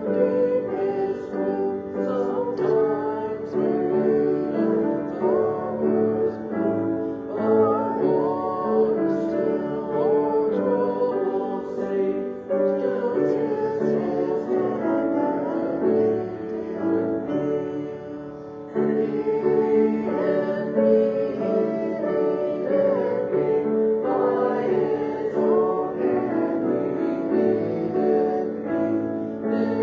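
Sung music with piano accompaniment, a singer's voice carrying a melody over sustained chords, with a brief drop in loudness a little past halfway.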